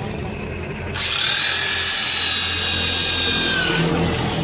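A power tool runs for about three seconds with a steady high whine, starting about a second in and stopping abruptly, over a low hum.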